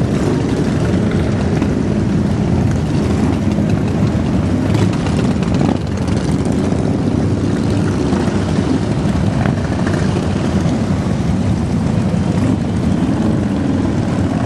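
Many motorcycle engines running together as a stream of bikes rides past, a loud steady rumble.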